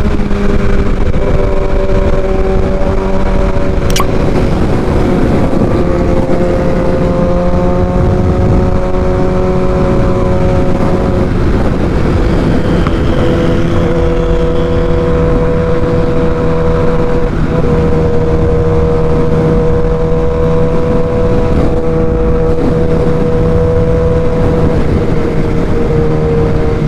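Sport motorcycle engine running at a steady highway cruise, its pitch holding and stepping a few times, under loud wind rush on the rider's microphone.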